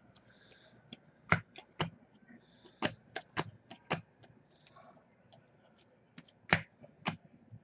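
Trading cards being handled and flipped through by hand: an irregular run of about a dozen sharp clicks and snaps of card stock.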